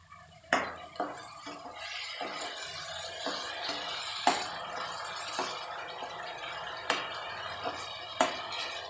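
Tomato purée sizzles steadily as it fries in hot oil and onion paste in a metal kadhai. A perforated metal ladle stirring it knocks sharply against the pan about six times.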